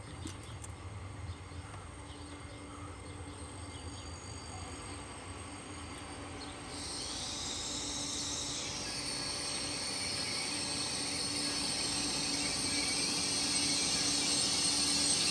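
A train approaching and growing steadily louder. From about halfway in, a high-pitched squealing sets in and continues.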